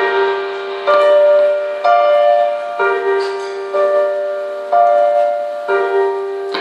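Live band music with no singing: a piano-sounding keyboard plays chords struck about once a second, each ringing and fading before the next.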